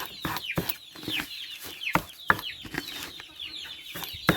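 Native chickens clucking and peeping, a dense run of short high calls that fall in pitch, several a second. A few sharp knocks stand out, about two seconds in and again near the end.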